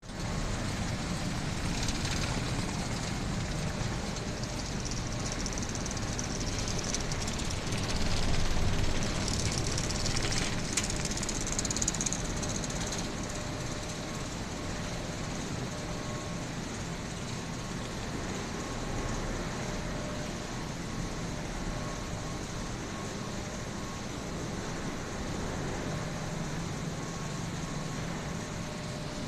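Wood pellet factory machinery running with a steady mechanical din while a truck is loaded, louder with an added hiss for a few seconds about a third of the way in.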